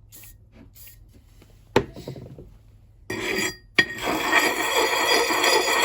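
Coarse side of a sharpening puck clinking against a steel axe head twice, then scraping continuously along the bit, a gritty rasp with the steel ringing under it.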